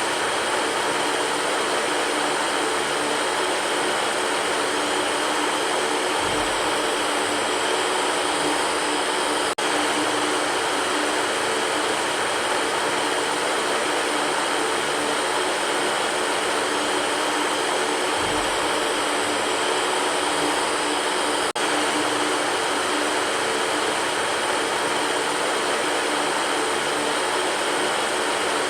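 Electric fan running steadily: an even rush of air with a faint steady hum. Twice, about twelve seconds apart, the sound drops out for an instant.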